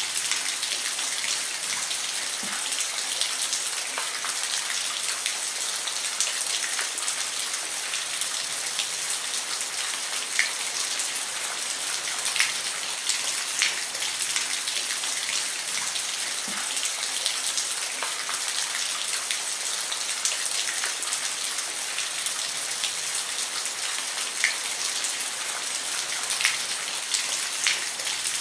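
Steady rain falling on a roof: a constant hiss with scattered sharper drop impacts now and then.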